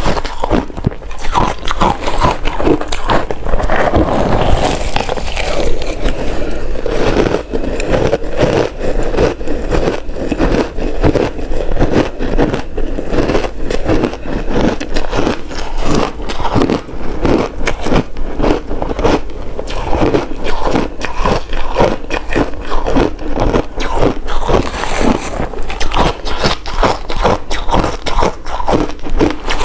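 Close-miked biting and chewing of frozen matcha ice cubes: a continuous run of irregular, sharp crunches and crackles as the ice is crushed between the teeth.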